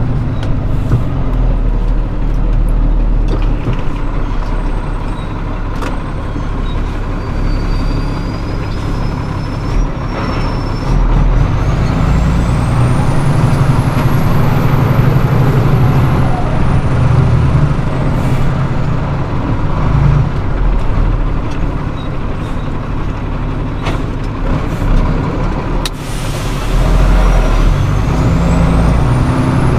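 Flatbed straight truck running down the road: steady engine and road noise, with the engine note shifting as it works. A thin high whine rises in pitch twice, from about a quarter of the way in to the middle and again near the end.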